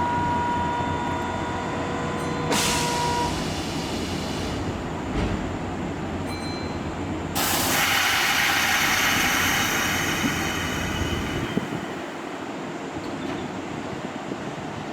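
Kintetsu Minami-Osaka Line electric train running through the station: a steady whine in the first few seconds, then a louder rush of wheel and rail noise from about seven seconds in that lasts around four seconds and fades.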